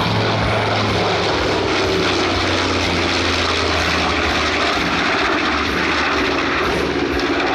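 B-25 Mitchell bomber's twin radial propeller engines running in a steady drone as it flies a pass.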